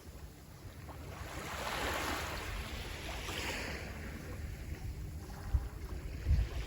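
Sea waves washing onto the shore: one wave's hiss swells about a second in, peaks and then drains away. A low wind rumble on the microphone runs under it, with a few gust thumps near the end.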